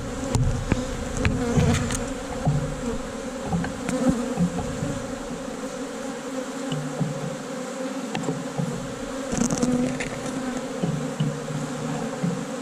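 Honey bees buzzing in a steady, dense hum around an open hive of a large, crowded colony, with a few faint clicks.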